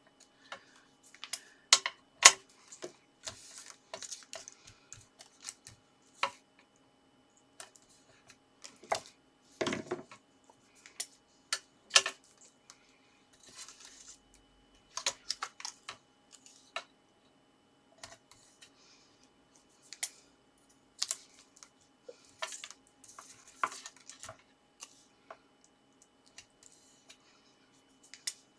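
Card pieces being handled and taped on a work surface: irregular light taps, clicks and short rustles of paper, with a longer rustle about ten seconds in.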